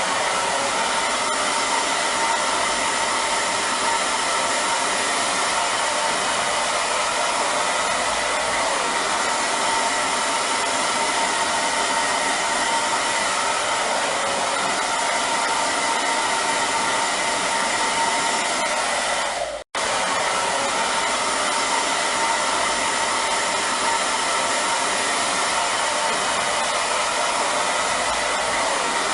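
Hair dryer running steadily, a dense rushing blow with a faint motor whine through it. It cuts out for a split second about two-thirds of the way through and comes straight back.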